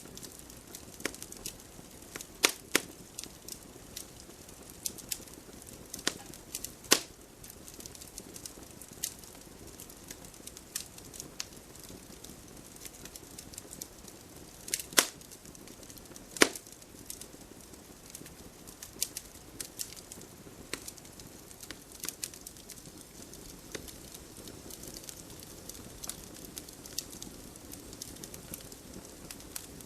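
Wood fire crackling: irregular sharp pops and snaps over a low steady hiss of burning, with a few louder pops, two of them close together about halfway through.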